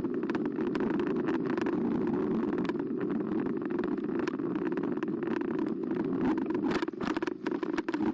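Riding noise from a Carbo X eBike picked up by a camera mounted on the bike: a steady rumble of tyres on the path with frequent small knocks and rattles from bumps.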